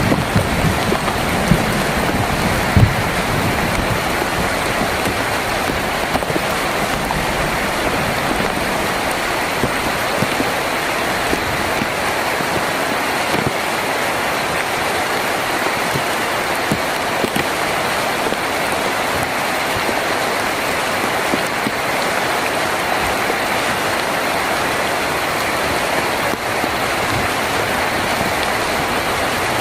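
Steady heavy rain drumming on a tin roof. A low rumble of thunder dies away in the first few seconds.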